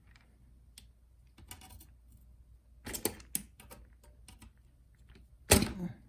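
Small metal hand tools, needle-nose pliers and a flat screwdriver, clicking and scraping against a MacBook Pro's aluminium top case while prying out the plastic keyboard rivets, with the loudest sharp snap near the end as a rivet comes free.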